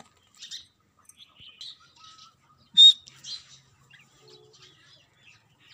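Birds chirping: scattered short, high chirps, with one louder, sharp call about three seconds in.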